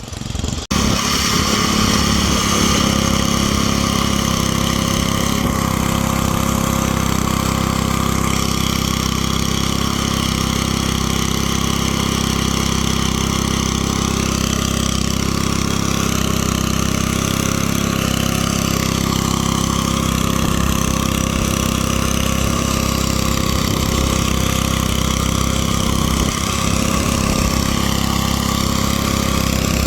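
Small gasoline engine of a garden tiller running steadily. Its pitch wavers slightly about halfway through and again near the end.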